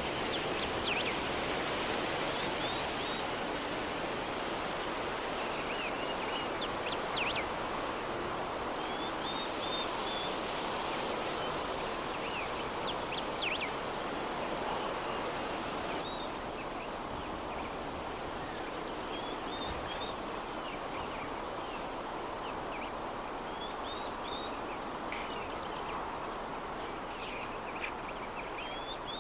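Steady soft breeze, with small birds chirping on and off in short, high calls throughout.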